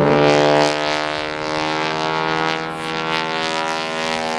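Propeller engine of an aerobatic airplane droning, a steady many-toned hum whose pitch sinks slightly as it goes.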